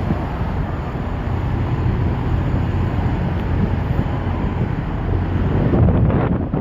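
Wind buffeting the microphone over a steady low rumble of truck traffic, swelling a little near the end.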